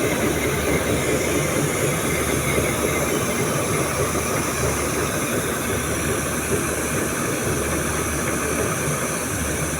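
Steady hum and hiss of railway equipment standing at a station platform, with no clear change in pitch or loudness.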